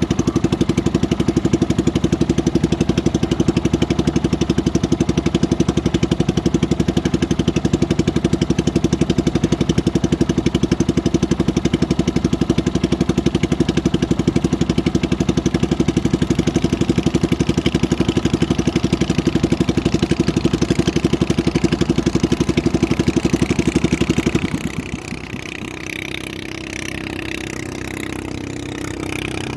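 A small engine running steadily with a fast, even beat, then dropping back to a quieter, lower idle about five seconds before the end.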